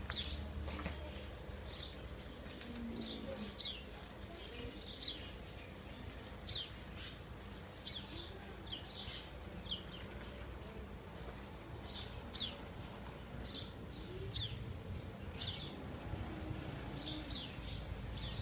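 Small birds chirping: short, high, falling chirps repeated irregularly, roughly one or two a second, with a brief lull in the middle, over a faint low background rumble.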